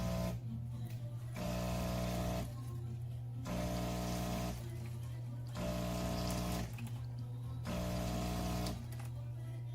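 De'Longhi Dinamica Plus automatic espresso machine preparing a flat white: a steady pump hum with a hissing surge about once every two seconds, each surge lasting about a second.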